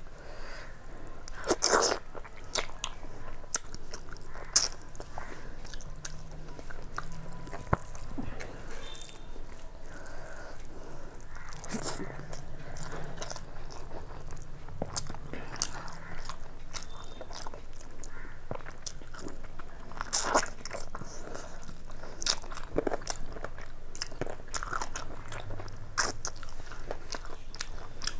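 Close-up eating sounds: chewing and biting of rice and chicken curry, with irregular wet mouth clicks and crunches, a few of them louder than the rest.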